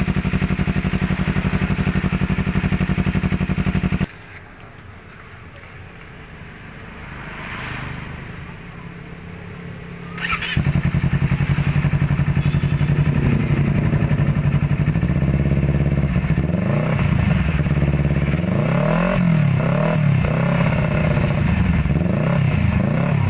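Honda CBR250RR's parallel-twin engine running through an aftermarket slip-on exhaust. It holds a steady speed, drops away sharply about four seconds in, and comes back loud about ten seconds in. In the second half it is revved up and down several times.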